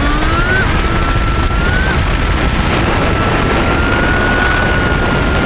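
Kawasaki Ninja 400's parallel-twin engine under way with heavy wind rush. Its pitch climbs and drops sharply twice in the first two seconds as it shifts up, then holds steady and slowly rises.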